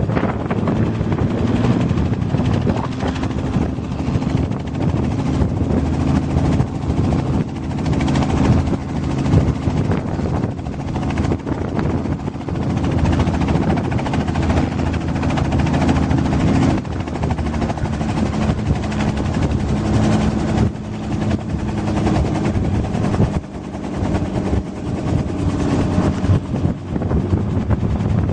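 Helicopter running close by: a loud, steady din of rotor and engine, with a rapid beating running through it.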